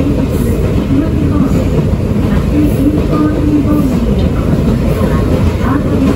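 Interior running noise of an Ichibata Electric Railway 2100 series electric train (a rebuilt ex-Keio 5000 series) under way: a steady, loud low rumble of wheels on rail and car body.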